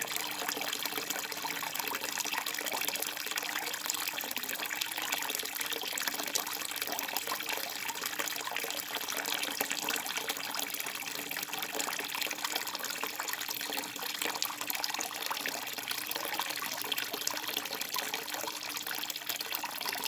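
Flowing water babbling and splashing steadily, a continuous hiss full of fine splashes that holds level throughout.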